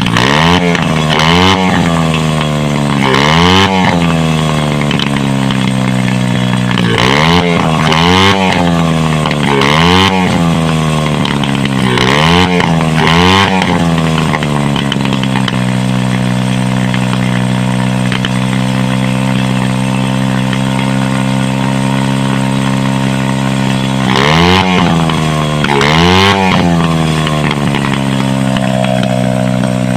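110cc dirt-bike single-cylinder four-stroke engine idling, blipped repeatedly with short revs in the first fifteen seconds, then idling steadily before two more quick revs near the end.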